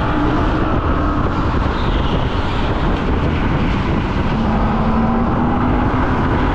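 Go-kart running on track, a steady motor tone over a heavy rough rumble; the tone drops a little in pitch about two-thirds of the way through as the kart slows.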